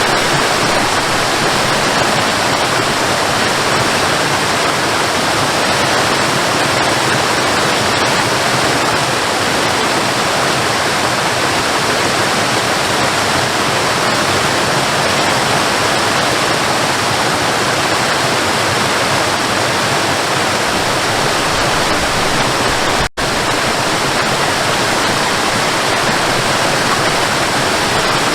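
Waterfall: a steady, even rush of falling water, with a very brief dropout about 23 seconds in.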